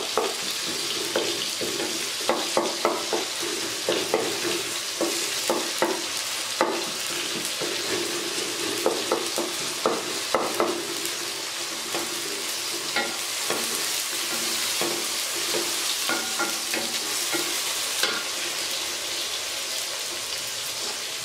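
Sliced onions and tomato sizzling in hot oil in a metal kadhai, with a wooden spatula knocking and scraping against the pan as the tomato is pressed and mashed in. The knocks come thick and fast for the first half, then thin out to a few, leaving mostly the steady sizzle.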